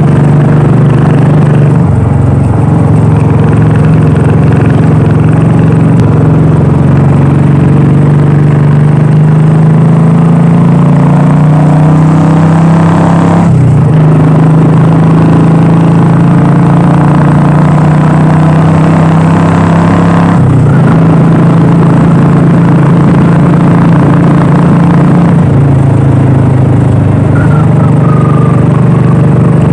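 Royal Enfield Classic 350's single-cylinder engine and exhaust running under way, the pitch rising and falling with the throttle, with two short breaks about 13 and 20 seconds in.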